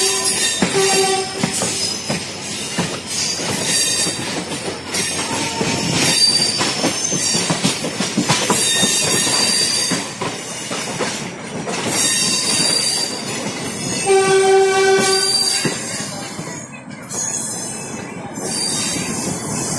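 Indian Railways passenger train running, heard from its own coach: wheels clattering over rail joints and points and squealing. A steady single-pitched train horn blast sounds about a second in, and another of about a second partway through.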